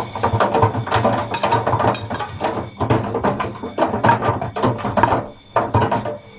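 Atlant 50U101 washing machine drum turning on an express wash, with paint rollers and brushes rattling and clattering inside over the motor's steady hum. The rattling eases off briefly about five and a half seconds in, as the drum pauses, then starts again.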